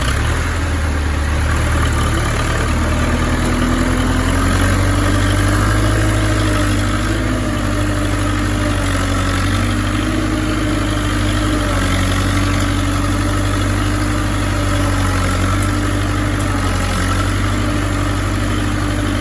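Belarus tractor's diesel engine running steadily and loudly.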